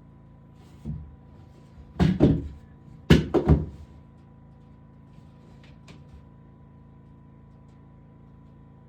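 Wooden knocks and thuds of boards or cabinet parts being handled: a soft knock about a second in, a loud cluster around two seconds, then three quick knocks about a second later, followed by two faint clicks.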